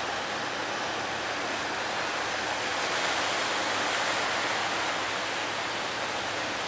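Breaking sea waves at a river mouth: a steady rush of surf that swells slightly a few seconds in.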